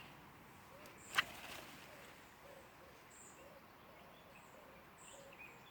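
Quiet outdoor background with faint, high bird chirps now and then, and a single sharp click about a second in.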